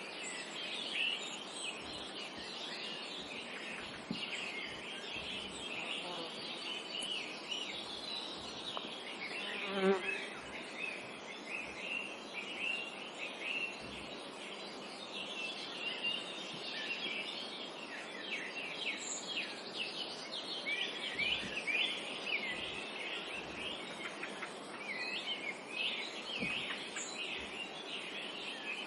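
Many songbirds chirping and singing at once in a continuous dawn-chorus tangle of quick, high notes over a soft background hiss, with a brief louder, lower sound about ten seconds in.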